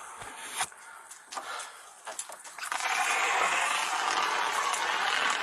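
Handheld fire extinguisher discharging: a loud, steady hiss starts about two and a half seconds in and cuts off sharply near the end. Before it come a few light knocks and rustles.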